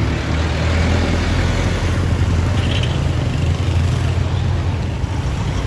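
Airbus A350-900's Rolls-Royce Trent XWB jet engines on approach: a steady low rumble with a broad rushing noise over it.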